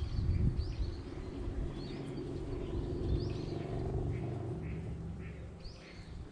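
Small birds chirping repeatedly in short high notes, over a low rumble that is strongest in the first few seconds and then fades.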